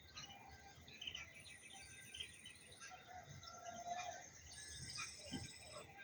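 A faint morning chorus of small birds chirping and calling, with a high, thin buzzing trill that comes in twice for about a second and a half each time.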